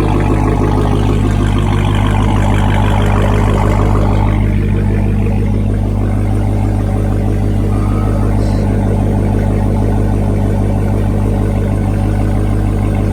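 Supercharged 6.2-litre V8 of a 2019 Dodge Charger Hellcat idling steadily through an exhaust with the mid mufflers deleted. A higher hiss over the low rumble fades away about four seconds in.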